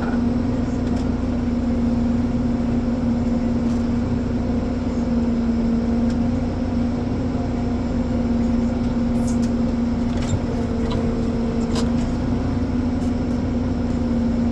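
Ponsse Elephant forestry forwarder's diesel engine running steadily, a constant drone with a strong low hum. A few faint ticks come through near the end.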